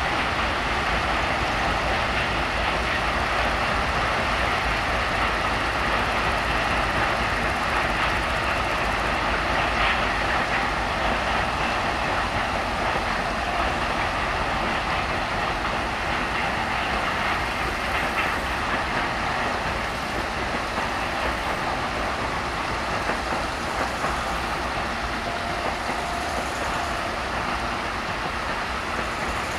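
Freight train of covered wagons rolling past, a steady rumbling rolling noise that eases off slightly towards the end as the last wagons go by.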